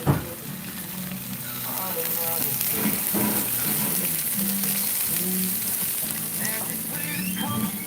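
Pork belly sizzling steadily as it grills on top of a wood-burning stove made from a gas cylinder, with a sharp knock right at the start.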